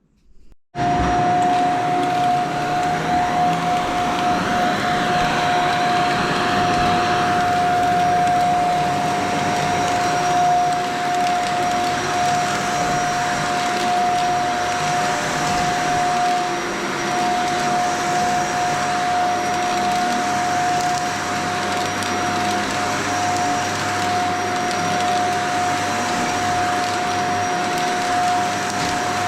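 Shark Vertex vacuum cleaner switching on about a second in and running steadily over carpet, with a strong steady whine.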